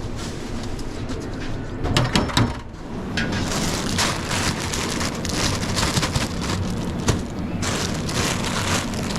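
Something sizzling and crackling in a hot pan, a dense spattering hiss that starts about three seconds in, after a few clatters of kitchen utensils.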